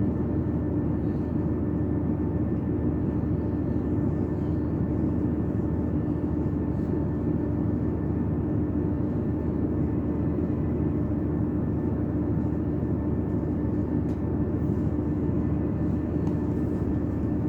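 Passenger train running steadily, heard from inside the carriage: a continuous rumble with a steady drone from the traction equipment.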